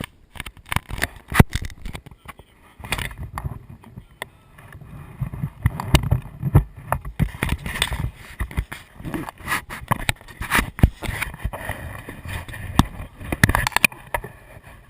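Dirt bike ride: an uneven low rumble that builds from about three seconds in, broken by many sharp knocks and thumps.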